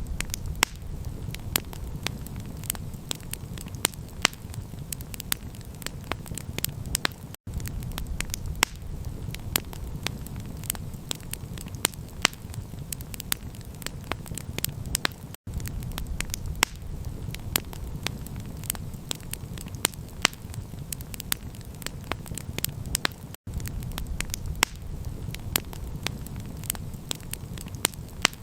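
Campfire crackling, with frequent sharp pops and snaps over a steady low rumble. The sound cuts out briefly about every eight seconds.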